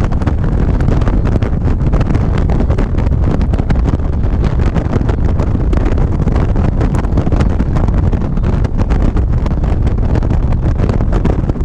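Heavy wind buffeting on the microphone of a moving motorcycle, a loud steady rush with constant crackle, over the bike's running engine and road noise.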